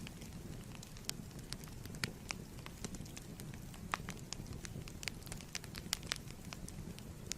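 Fireplace fire crackling: irregular sharp pops and snaps over a steady low rumble of burning wood.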